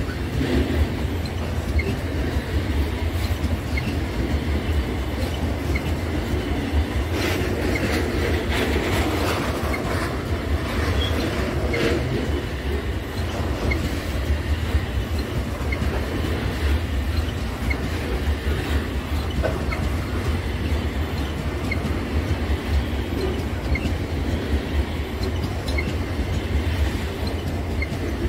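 Loaded freight train of covered hopper cars rolling steadily past at close range: a continuous low rumble of steel wheels on rail, with clacks as the wheels cross rail joints, thickest between about seven and twelve seconds in.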